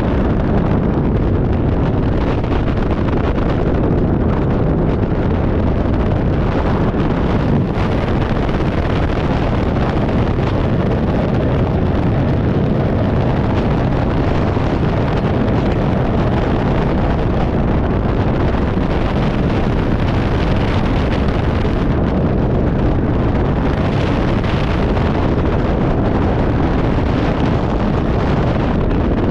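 Wind rushing over a skydiver's helmet-mounted camera microphone: a loud, steady roar of wind noise with no break.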